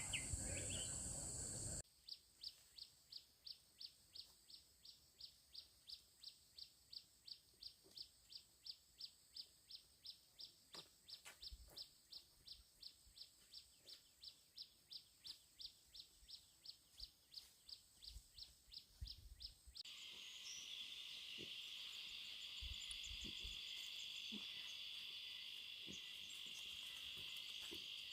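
Faint forest night ambience. A long run of evenly spaced high chirps, about two or three a second, is followed about two-thirds through by a steady high insect buzz typical of crickets.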